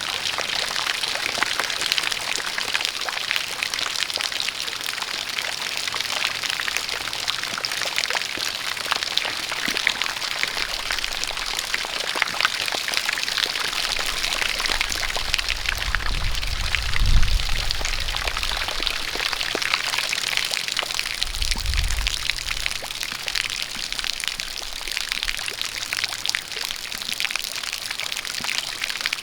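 Steady rain with a stream of water pouring, the hiss dense with individual drops ticking. A low rumble swells and fades about halfway through, and a shorter one follows a few seconds later.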